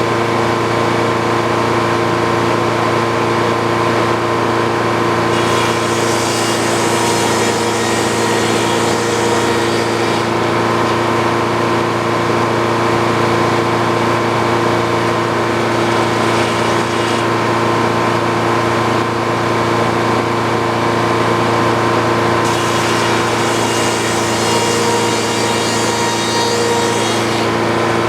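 Old Frick sawmill running steadily under power, with two spells of added high hiss, each about five seconds long.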